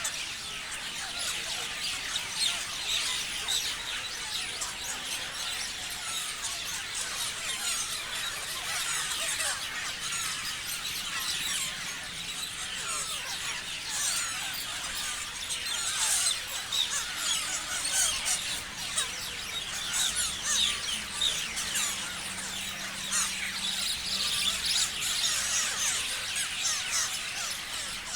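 Many parrots chirping together: a dense, unbroken chorus of short, high, overlapping calls, with louder calls standing out now and then.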